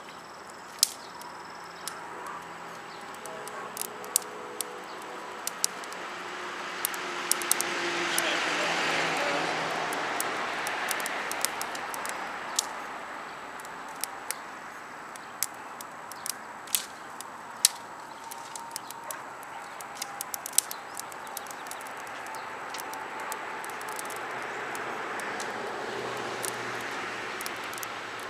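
Wood fire crackling, with many sharp pops and snaps scattered throughout. A broad rushing noise swells and fades about a third of the way in, and more gently again near the end.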